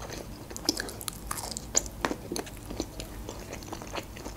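Close-miked chewing of a mouthful of food: a quick, irregular run of small wet clicks and smacks from the mouth.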